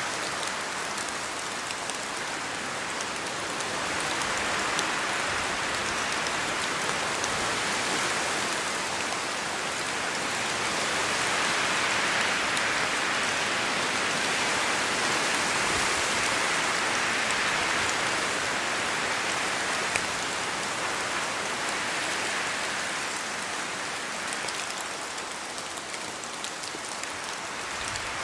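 Steady rain falling in a forest, a dense patter of drops on leaves, swelling gently and easing again.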